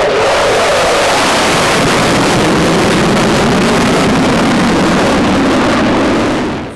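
F-16 fighter jet flying past overhead: loud jet engine noise whose pitch slides down as it passes, cut off abruptly near the end.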